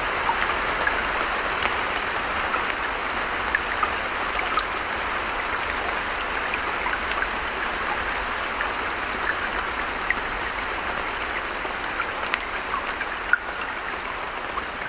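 Steady rain falling, an even hiss with many scattered individual drops ticking throughout.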